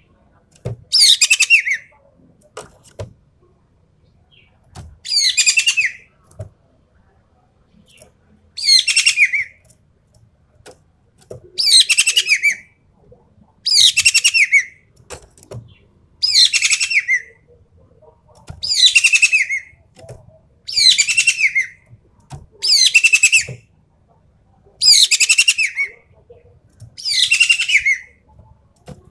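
Ekek keling bird giving a series of loud, harsh rattling calls, each about a second long and falling in pitch, repeated about every two seconds.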